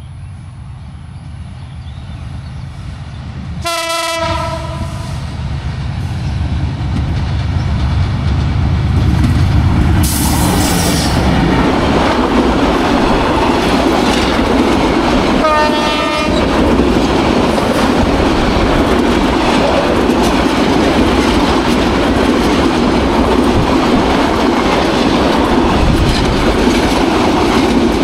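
Diesel-hauled Bangladesh Railway intercity express train passing at speed: the locomotive horn sounds once for about a second, about four seconds in, as the train approaches. The noise then builds into the steady rumble and rhythmic wheel clatter of the PT INKA coaches running over the rails, with a second short horn note about halfway through.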